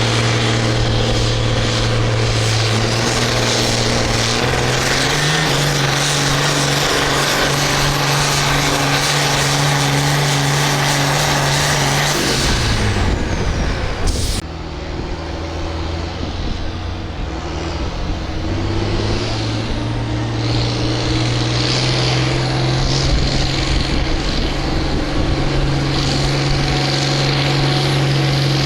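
Farm pulling tractor's engine running at full throttle under load, pulling the sled. About 12 seconds in its pitch falls away as it throttles down, and the sound breaks off abruptly. A tractor engine then climbs back to full throttle and holds steady.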